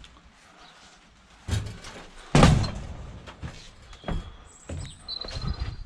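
A series of knocks and clunks, the loudest a heavy bang about two and a half seconds in, with a few short high squeaks near the end.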